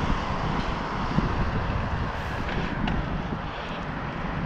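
Steady wind buffeting the microphone while riding, with a rough, fluttering low rumble and a constant rush of road and traffic noise.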